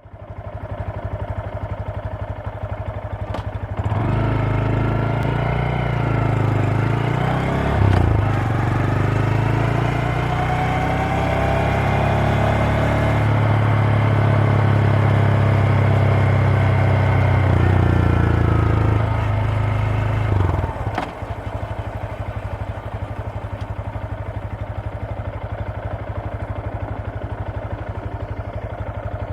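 Honda Grom MSX125's single-cylinder four-stroke engine and exhaust ticking over at idle, then revving up and running at higher revs for about seventeen seconds, the pitch rising, dipping once about eight seconds in and climbing again, before dropping back to a steady idle.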